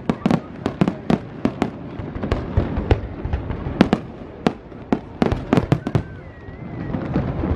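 Fireworks display: an irregular run of sharp bangs, several a second, over a continuous low rumble.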